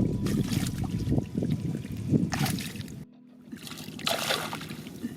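Shallow rice-field water splashing and trickling as someone wades and gropes for fish by hand, with small clicks and splashes. The sound breaks off briefly about three seconds in.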